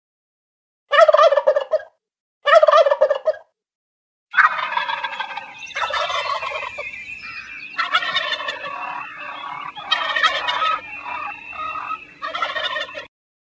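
Turkeys gobbling: two short gobbles, then a longer run of repeated gobbling from about four seconds in, with a faint steady hum underneath in the second half.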